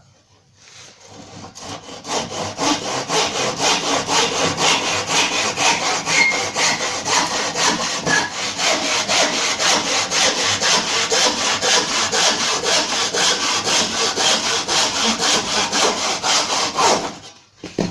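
Handsaw cutting through a piece of timber in quick, even back-and-forth strokes, starting gently and stopping sharply near the end. For the last part of the cut the blade is pointed upward, which keeps the wood from ragging out at the end of the cut.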